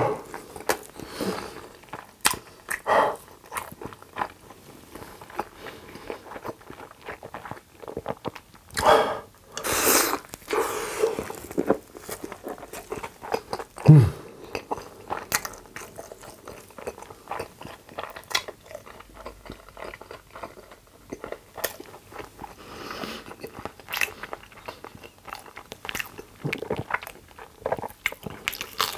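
Close-miked eating of a thick multi-patty burger: bites, wet chewing and lip smacks with a light crunch, a louder spell of chewing around the middle, and one brief low sound falling in pitch about halfway through.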